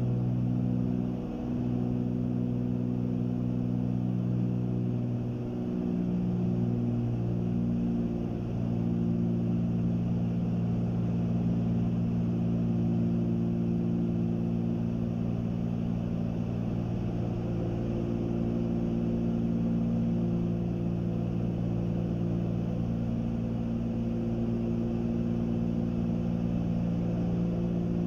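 Cessna 310Q's two six-cylinder piston engines and propellers droning steadily in flight, heard inside the cabin. The engine tones waver and shift slightly a few times in the first several seconds, then hold steady.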